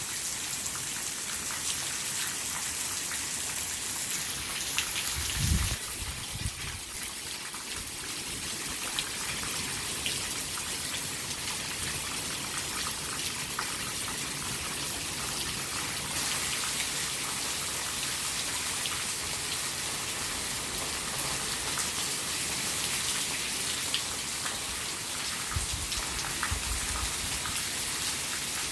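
Steady rain falling. A brief low rumble comes about six seconds in and again near the end.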